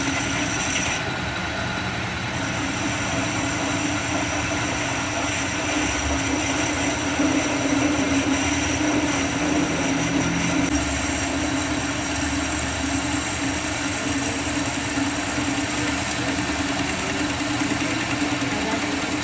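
A machine running steadily, a constant hum with a hiss over it.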